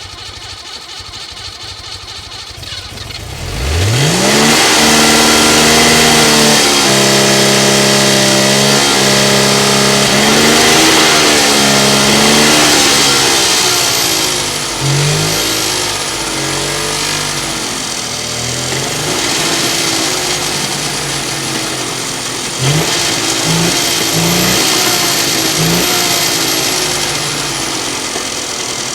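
1961 Saab three-cylinder two-stroke engine catching on a cold start about three and a half seconds in, its pitch rising quickly to a high fast idle. It holds there for several seconds, then eases down to an uneven idle with a few short throttle blips near the end.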